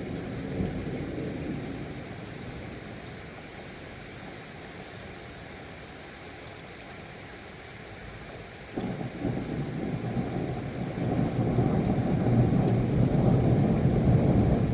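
Thunder rolling over steady rain: one rumble fades away over the first half, then a new roll breaks in suddenly about nine seconds in and grows louder toward the end.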